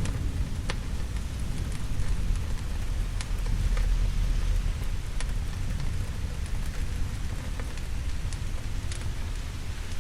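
Steady rain with a low rumble underneath that swells about four seconds in, and a few scattered sharp clicks.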